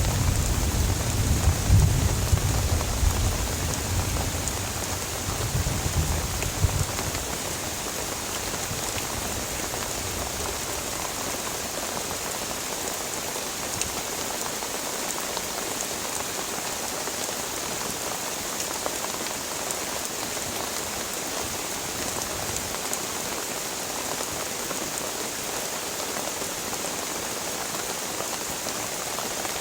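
Heavy tropical rain falling in a steady hiss. A low thunder rumble dies away over the first several seconds, leaving only the downpour.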